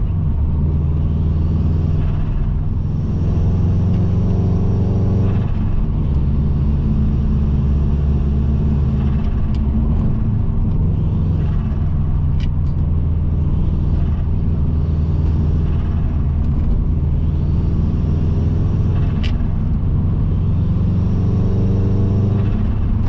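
Turbocharged EJ20 flat-four of a bug-eye Subaru Impreza WRX running under way, heard from inside the cabin as a steady low drone. The engine note shifts about five and ten seconds in, and a few short clicks come through the drone.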